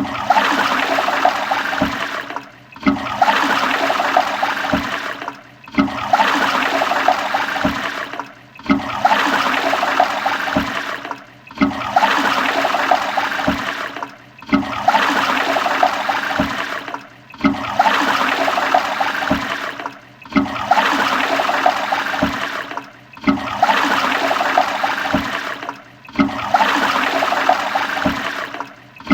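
Toilet flushing, a rush of water with gurgling, in a short segment that repeats about every three seconds. Each repeat starts suddenly and dips briefly before the next one.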